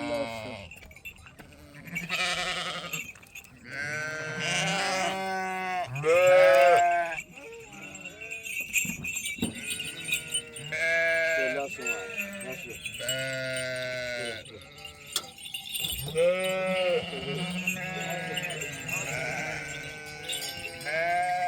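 A flock of sheep bleating, many animals calling over one another in short, wavering cries of different pitches.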